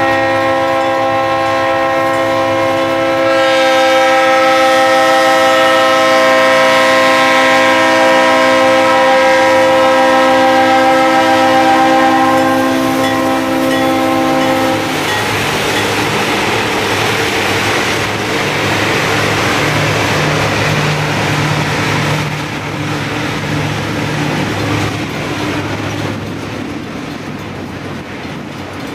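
Lead GE diesel locomotive of an ore train sounding its air horn, several notes together in one long blast of about fifteen seconds as it nears a grade crossing. After the horn stops, the locomotives' diesel engines and the rolling wheels of the loaded ore cars are heard as the train passes.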